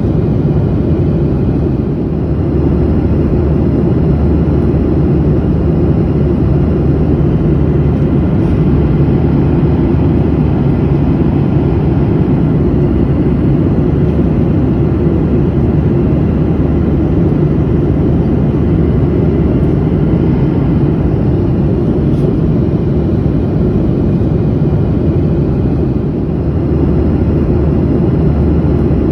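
Airliner in flight heard from inside the cabin: a steady low rumble and rush of engine and airflow noise.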